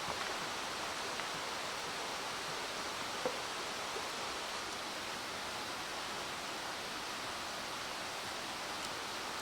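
Mountain stream rushing steadily, with a faint click or two about three seconds in.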